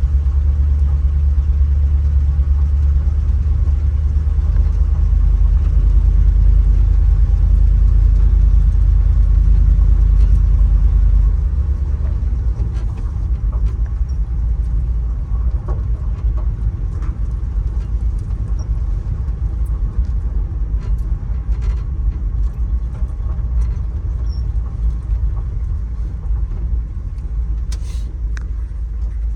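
1967 Ford F100 pickup driving with its engine still cold, a steady low rumble of engine and road. About eleven seconds in the rumble drops lower and quieter, with light rattles and clicks after.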